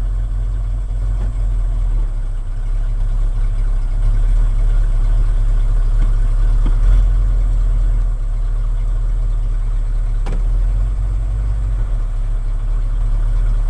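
The 1980 Ford F100's 302 small-block V8 idling rough and rich after being flooded on a warm start. It is dropped into gear and keeps running without stalling, a little louder from about four seconds in. There is a single click about ten seconds in.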